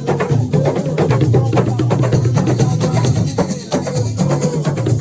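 Assiko music: drums and other percussion playing a dense, fast, steady rhythm.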